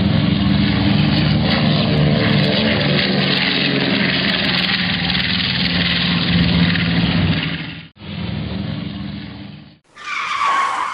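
A motor vehicle running steadily, with engine hum and road noise, in cut-together clips. A short final clip near the end carries a falling squeal.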